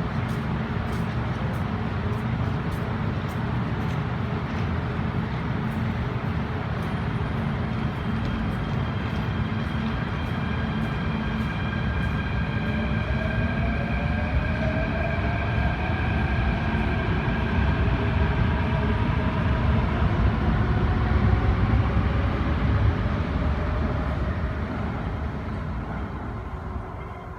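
Hong Kong MTR Tung Chung line Hyundai Rotem K-Train pulling away, its IGBT-VVVF traction inverters whining in tones that rise in pitch as the train accelerates, over a steady rumble of wheels and motors. The sound grows louder to a peak and then fades as the train leaves.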